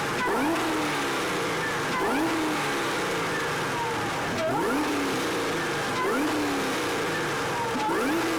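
Supercharged V8 of about 8 litres in a Chevrolet Camaro being revved repeatedly: about five quick throttle blips, each a sharp rise in pitch that falls back, over the running engine. The supercharger whine rises and falls with each rev, and the exhaust runs through large silencers.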